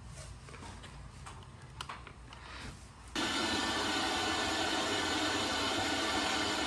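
A few light clicks and knocks over a low hum. About three seconds in, a steady vehicle engine and road noise starts abruptly and holds.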